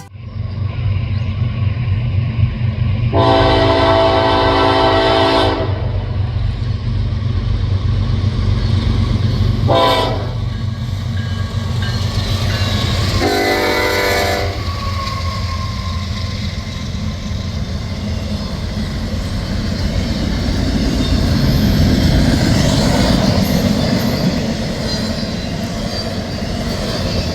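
Norfolk Southern freight train with its diesel locomotives rumbling past and the air horn sounding three times: a long blast, a short one, then a longer one. Later the rolling noise of the passing cars grows.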